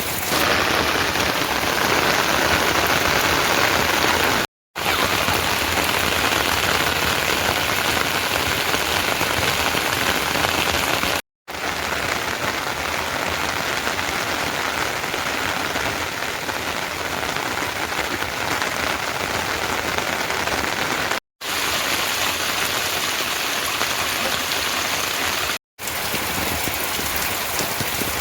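Heavy rain falling steadily in a dense hiss, cutting out abruptly for a split second four times.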